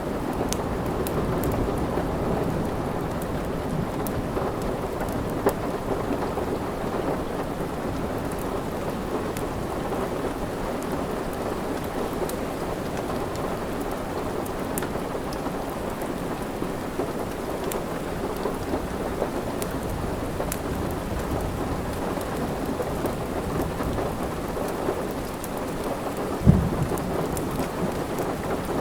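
Steady heavy rain with a low rumble of thunder under it, and scattered sharp crackles from a wood fire. There is one small pop about five seconds in and one loud pop near the end.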